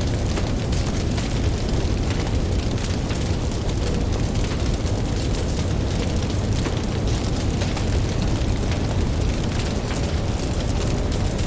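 Campfire crackling with many small sharp pops over a steady low rumble of ocean surf.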